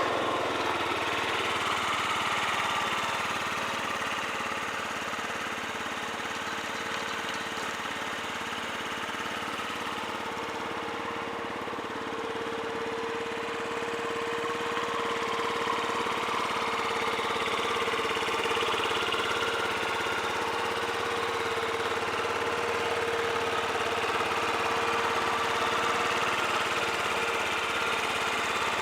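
2012 Yamaha Vino SA37J scooter's 50cc four-stroke single-cylinder engine idling steadily just after starting, described as in good running condition.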